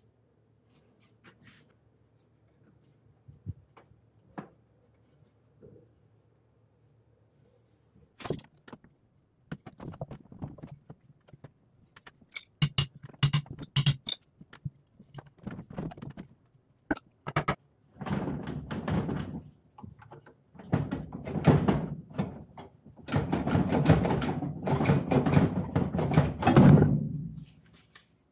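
Handling and repair noises from work on a washing machine: scattered clicks, then sharp knocks and metallic clinks, then longer stretches of rattling and scraping in the second half that stop just before the end.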